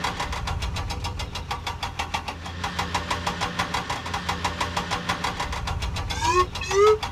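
Cartoon vehicle engine sound effect: a steady low hum with a rapid even ticking of about seven beats a second, like an idling engine. About six seconds in, short rising whistle-like tones join it, one after another.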